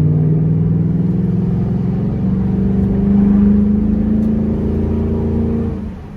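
Ford Mustang with a Roush Extreme axle-back exhaust accelerating, heard from inside the car: the exhaust note climbs steadily in pitch, then drops away sharply near the end as the throttle is lifted.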